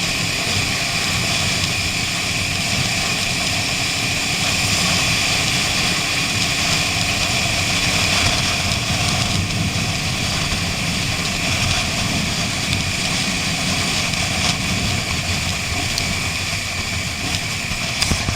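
Motorcycle engine running at a steady pace, with wind rush over the microphone.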